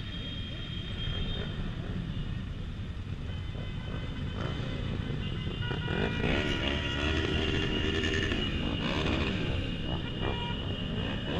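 Motorcycles running in a slow convoy, with a steady engine rumble and several horns tooting in long held notes, joined from about four seconds in by engine notes that rise and fall.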